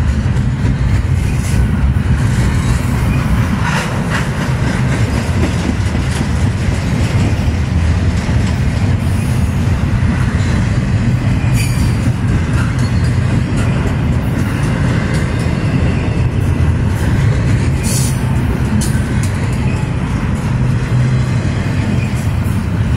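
Double-stack intermodal freight train's well cars rolling past close by: a loud, steady rumble of steel wheels on rail, with a few brief sharp noises on top.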